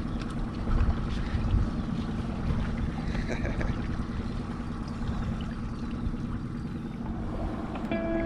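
Boat motor running steadily at trolling speed, a low even hum with water and wind noise on the microphone. A few short high-pitched tones sound just before the end.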